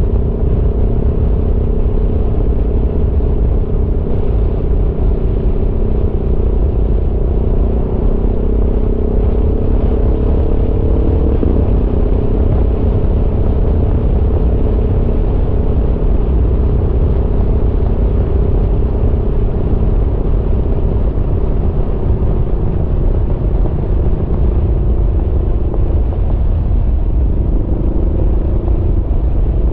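Aprilia Tuono V4's V4 engine pulling at road speed, its note climbing slowly for about ten seconds, then dropping a step, as at a gear change, and holding steady. A heavy low rumble runs under the engine note.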